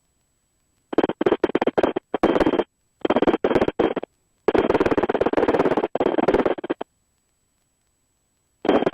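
Air-band radio audio through the headset intercom: loud, choppy bursts of a garbled transmission with no words that can be made out, repeatedly chopped by sudden dropouts, and cutting to dead silence between bursts and near the end as the squelch closes.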